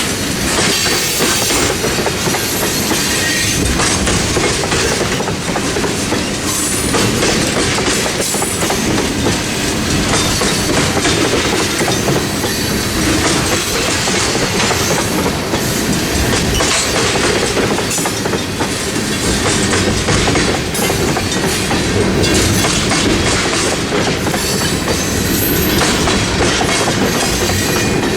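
Freight train rolling steadily past at a grade crossing, its wheels clattering over the rail joints.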